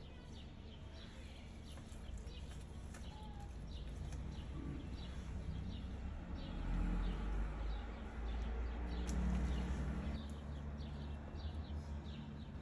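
Small birds chirping in short repeated notes over a low rumble that grows louder in the middle.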